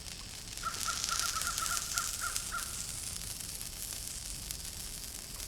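A bird calling a quick series of short, repeated notes for about two seconds, over a steady high hiss of outdoor ambience.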